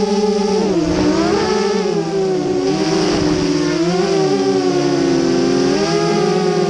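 FPV quadcopter's electric motors and propellers whining, several close pitches that dip and rise together as the throttle changes, with a clear drop about a second in and another dip about two-thirds of the way through.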